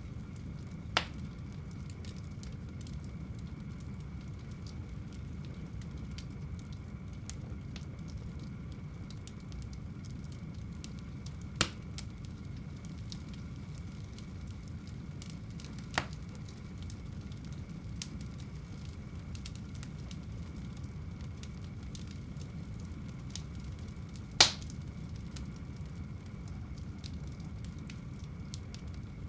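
Fire burning in a home fireplace: a steady low rumble of flames with a few sharp crackling pops several seconds apart, the loudest near the end.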